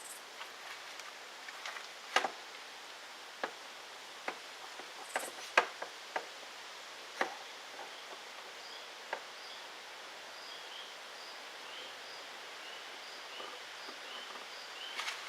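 Scattered short knocks and clicks of lumber and tools being handled during woodworking. From about eight seconds in, a repeated high chirping runs on, about two chirps a second.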